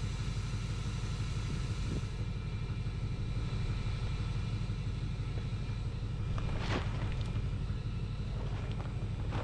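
A vehicle engine running steadily with a low, even hum. A brief noise cuts across it about two-thirds of the way through.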